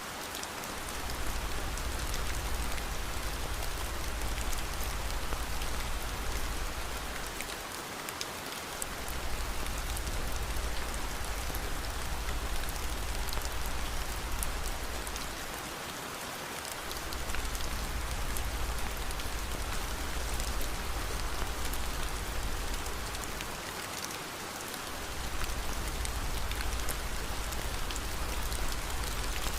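Steady rain falling, with a deep rumble underneath that fades out briefly about every eight seconds.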